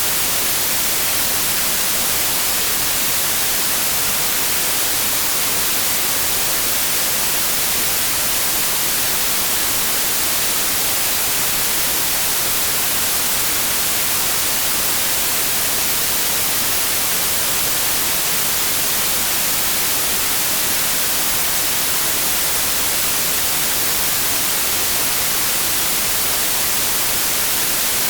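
Generated white noise: a steady, even hiss, strongest in the high end, with no change throughout.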